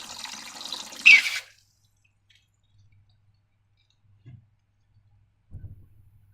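A wet pouring and splashing of liquid or slime that stops suddenly about a second and a half in. Two soft knocks follow in near silence.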